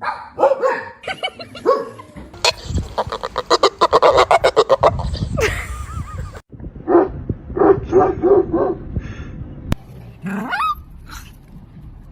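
A dog making odd vocal sounds: short barks and yips, with a fast run of rapid pulsed calls in the middle and a shorter string of about five yelps later.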